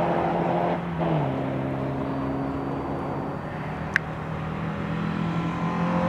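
MGB GT sports car engine on a track lap: the engine note drops about a second in, holds steady, then climbs near the end as the car accelerates. A short click about four seconds in.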